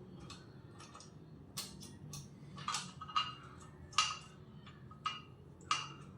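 Light metallic clicks and clinks, about half a dozen at uneven spacing, each with a short ring, as small motorcycle parts are handled; they grow louder after the first second or so, over a low workshop hum.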